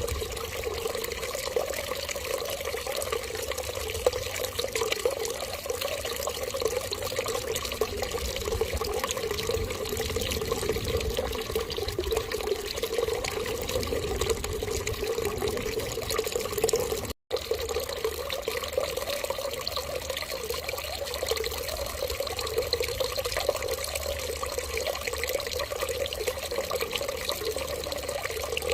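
Water running steadily, like a tap left flowing into a sink, an unbroken even rush. It cuts out completely for a split second about 17 seconds in, then resumes unchanged.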